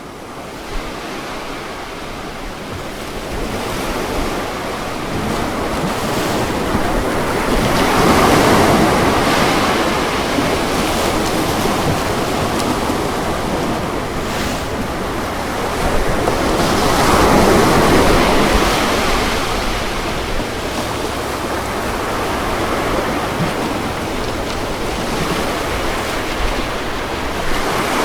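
Ocean surf breaking on a beach in a continuous wash, swelling louder twice, about eight seconds in and again around seventeen seconds.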